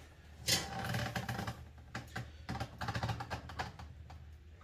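Irregular metallic knocks, clicks and rattles as an engine is lowered on an engine hoist: one sharp knock about half a second in, then a run of smaller clicks and clanks.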